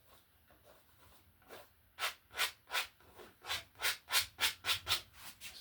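Stiff paintbrush scrubbing oil paint: about a dozen quick rasping strokes, roughly three a second, beginning about two seconds in.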